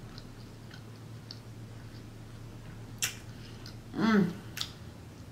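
Close-up chewing of a mouthful of burger with the mouth closed: faint wet mouth clicks and smacks, a sharper smack about three seconds in and a short hummed "mm" about four seconds in, over a faint steady low hum.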